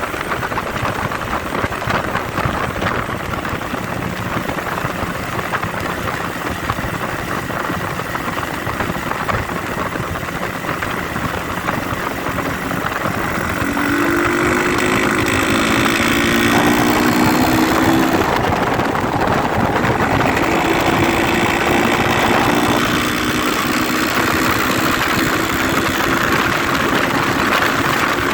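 IZh Jupiter 5 motorcycle fitted with a Chinese 300 cc engine, running on the move under heavy wind noise. About halfway through it gets louder and the engine note climbs, drops back, then climbs again as it pulls through the gears.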